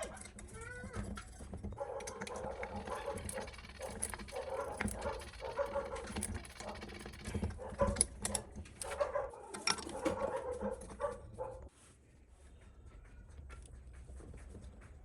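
An animal making repeated short calls, mixed with clicks and knocks; the calls stop suddenly about three-quarters of the way through.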